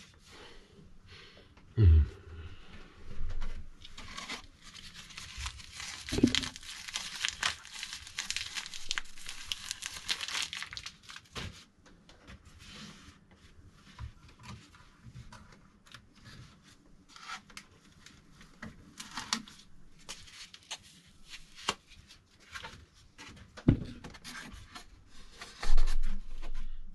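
Packaging of a new 3D printer being torn open and handled: a long tear about four seconds in lasting several seconds, with crinkling and rubbing throughout and a few thuds from the box being moved.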